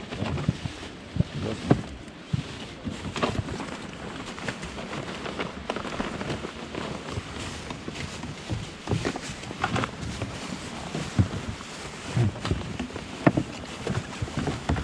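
Steady wind and water noise around a small fishing boat, with scattered knocks and clicks.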